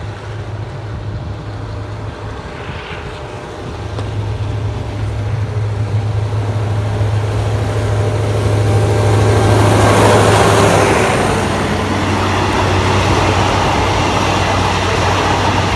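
Diesel locomotive hauling a passenger train approaches and passes: a steady low engine drone grows louder and peaks as the locomotive goes by about ten seconds in, followed by the rumble of the coaches rolling past.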